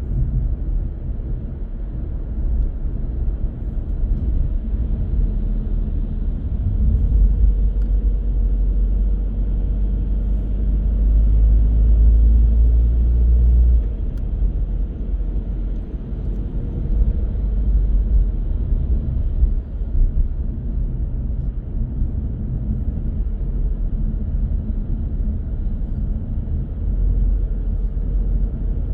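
Car interior road noise while driving: a steady low rumble of engine and tyres that swells for several seconds and drops off sharply about halfway through.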